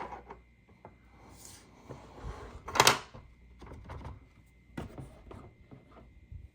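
Plastic toy pieces being handled by hand: a string of small clicks and knocks with some rustling, the loudest a sharp clack about three seconds in.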